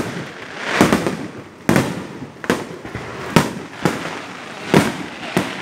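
Fireworks bursting overhead: about seven sharp bangs at uneven gaps, each trailing a short echo.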